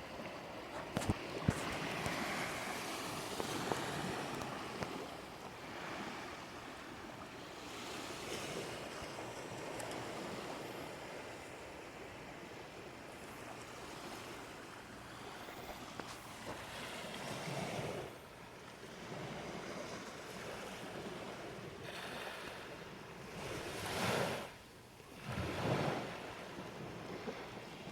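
Ocean surf washing onto a beach: a steady wash of waves with several swells as waves break, the loudest two near the end. A few sharp clicks about a second in.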